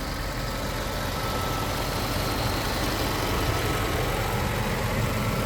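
Mercedes-Benz SL500 (R129) 5.0-litre V8 running steadily at idle, getting slightly louder about two seconds in.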